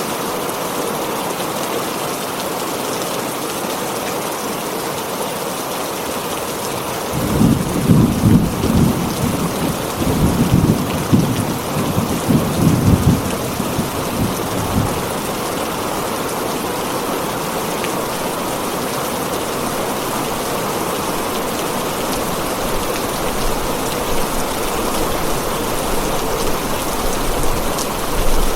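Heavy rain pattering steadily on a tin roof. A long roll of thunder rumbles in about a quarter of the way through and dies away a few seconds later, and a second rumble begins near the end.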